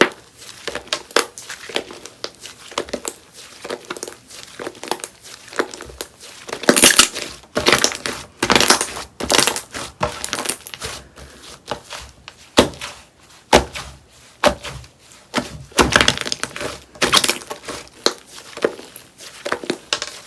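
Clay-mixed slime being squished, stretched and pressed by hand, giving irregular clusters of sharp clicks, pops and crackles, with a few louder stretches of crackling.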